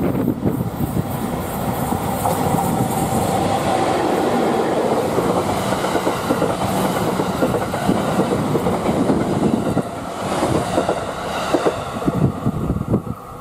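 Train of an EF64 electric locomotive hauling unpowered E131-series electric multiple-unit cars passing close by: a steady rolling rumble with the clickety-clack of wheels over rail joints. The sound drops off near the end as the last car goes by.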